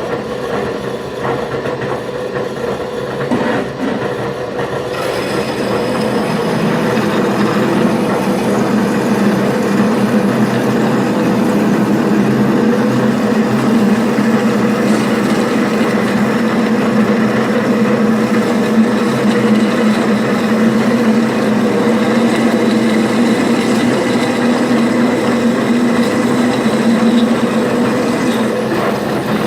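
Craftsman 12-inch bandsaw converted for metal cutting, its 1/2-inch 14 TPI blade running slowly through a speed reducer and sawing through 5/8-inch mild steel: a steady mechanical drone that grows louder and fuller about five seconds in as the blade bites into the steel.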